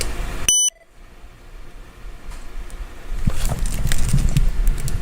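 A short high electronic beep about half a second in. From about three seconds in come low rumbling and scattered clicks of handling or rustling noise.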